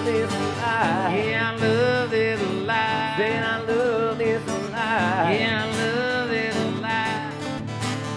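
Live acoustic country band playing an instrumental interlude between verses, with a lead melody line wavering and bending in pitch over strummed guitar chords.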